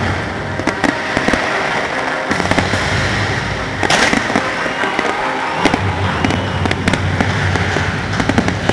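Fireworks display: a dense run of sharp cracks and pops from bursting shells over a continuous rumbling haze.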